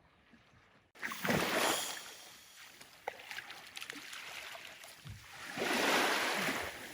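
Water splashing and sloshing in two loud swells, one about a second in and a bigger one near the end.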